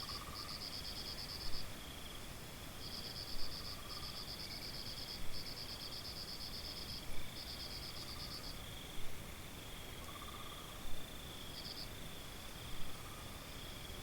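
Crickets trilling in high-pitched bouts of about a second each, over a steady thin insect tone, with a short louder call repeating about every two seconds.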